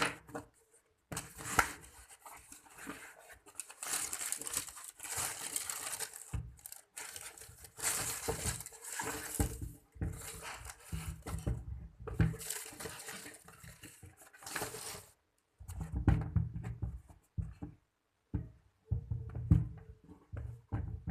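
Shoe packaging rustling and crinkling in irregular bursts, with tearing-like swishes, as the shoes are handled and unpacked; in the last few seconds the rustling gives way to muffled low knocks and handling bumps.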